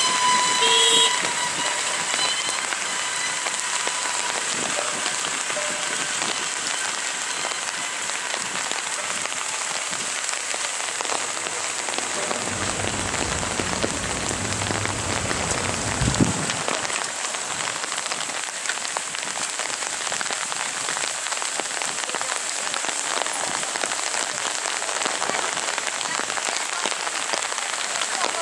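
Steady heavy rain falling on a wet road. A held pitched tone stops about a second in, and a single sharp knock sounds about sixteen seconds in.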